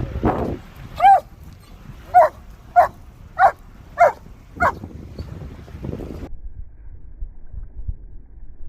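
Flat-coated retriever barking six times in about four seconds: short, sharp barks.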